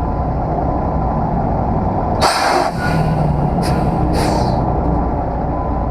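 Semi-truck's engine running steadily, with a loud burst of compressed air hissing about two seconds in and two shorter hisses a second or so later, typical of the truck's air brakes.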